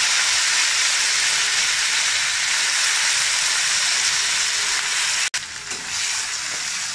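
Hot sesame oil sizzling in a steel kadai as freshly washed coriander leaves fry with chana dal, urad dal and green chillies. The sizzle breaks off suddenly about five seconds in, then goes on quieter while a spatula stirs the leaves.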